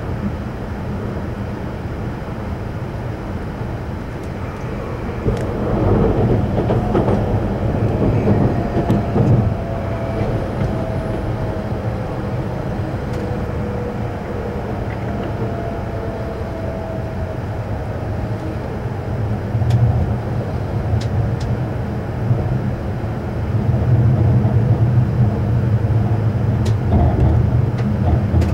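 Cabin running noise of an E5 series Shinkansen heard from a passenger seat: a steady low rumble that swells twice, with a faint whine slowly falling in pitch as the train slows for a station stop, and a few faint clicks.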